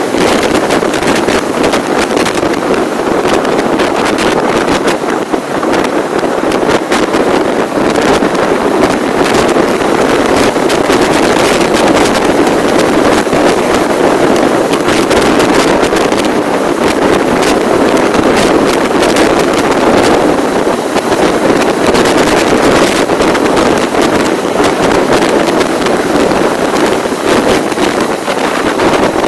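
Wind buffeting the microphone during a ride, a loud steady rush with many small crackles throughout.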